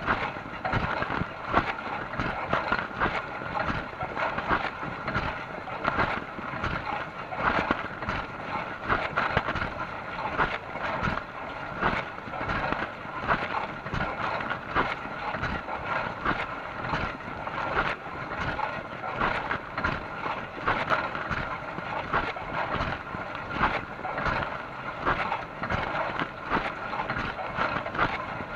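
Dishwasher running: a steady rush with many short, irregular surges.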